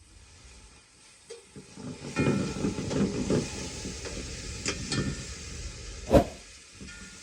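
Food sizzling and hissing in a hot pot, starting about two seconds in, with the clinks and scrapes of a metal utensil against the pot and one sharp knock about six seconds in.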